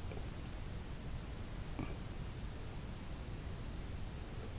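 A cricket chirping steadily in the background, high and even at about three chirps a second, with a faint tap about two seconds in.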